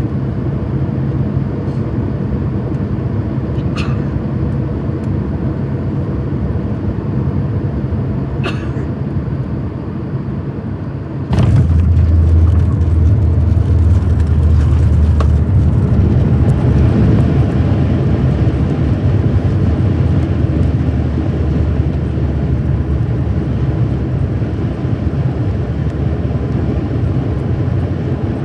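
Boeing 737 MAX 8 airliner landing: a steady rumble, then about eleven seconds in a sharp knock and a sudden jump to a louder, deeper rumble that slowly eases off, typical of touchdown followed by reverse thrust and braking on the rollout. Two faint clicks come in the first half.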